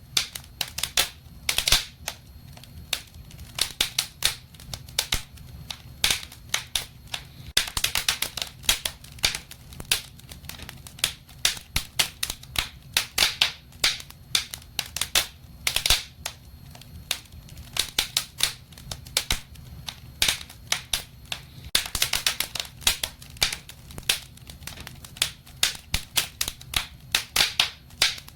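Wood fire crackling in a fireplace: irregular sharp pops and snaps, some coming in quick clusters, over a low steady rumble.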